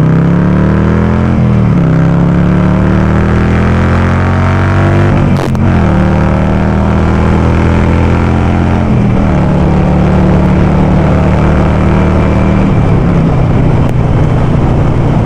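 Harley-Davidson Sportster 48's air-cooled V-twin running loud through an aftermarket VnH exhaust, pulling through the gears. The engine note climbs, then drops sharply at each upshift, four times, every three to four seconds.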